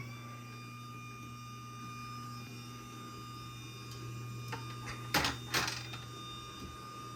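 Craftsman 139.57915 belt-drive garage door opener motor running through a closing cycle: a steady hum and whine at constant speed. Two loud clacks come about five seconds in.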